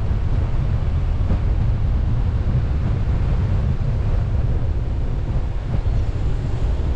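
Steady low rumble of a car on the move, heard through a car-mounted GoPro HERO8: wind buffeting the microphone over road and engine noise.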